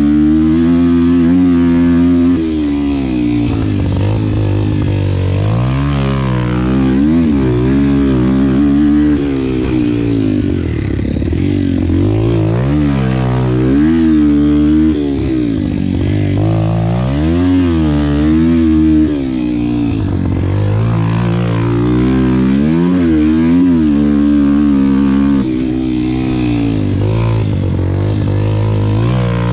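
A Yamaha TT-R pit bike's small single-cylinder four-stroke engine being ridden hard: it revs up and drops back again and again, every few seconds, as the throttle is worked through the track's corners and jumps.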